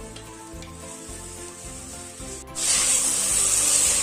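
Background music, then about two and a half seconds in a loud sizzle starts abruptly: onions, tomato, capsicum and whole spices frying in hot oil in a pressure cooker.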